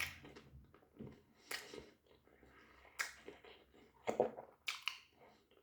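Close-up eating sounds from someone eating a doner kebab: a string of short, sharp mouth clicks and smacks about a second apart, with a quicker cluster near the end.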